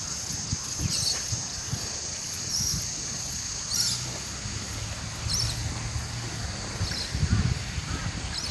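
Birds calling in short, high chirps every second or so, over a steady high insect drone. Breeze buffets the microphone as a low rumble.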